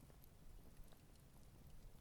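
Campfire crackling faintly: scattered small ticks and pops over a low, steady rumble.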